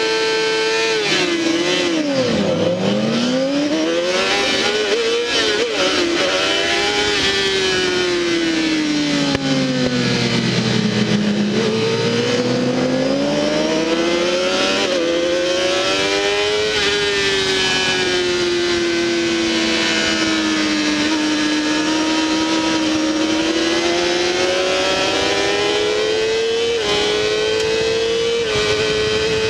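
Honda CBR600RR inline-four engine at high revs on track, its pitch dropping sharply as it brakes and downshifts about two seconds in and again near ten seconds, then climbing back up through the gears. A rushing wind sound runs under the engine.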